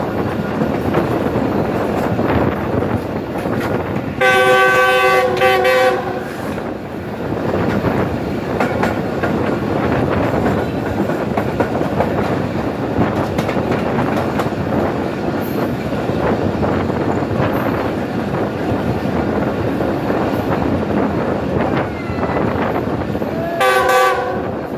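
Pakistan Railways Tezgam Express passenger train running at speed, heard from one of its coaches: a steady rumble of wheels on rail with wind noise. The locomotive's chord horn sounds for about two seconds with short breaks, about four seconds in, and once more briefly near the end.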